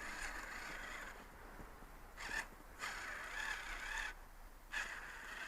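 Faint whirring of a small RC tracked vehicle's electric motor and gears, coming in about three spurts as it struggles for grip on a slope.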